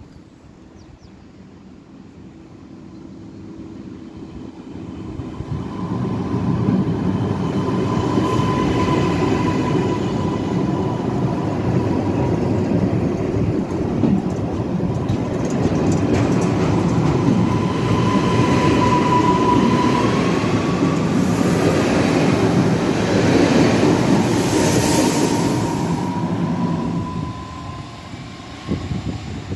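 Electric multiple-unit passenger train passing close by. Its rumble and rail noise swell up about five seconds in and fade near the end, with a high, slightly wavering whine held through the loudest part.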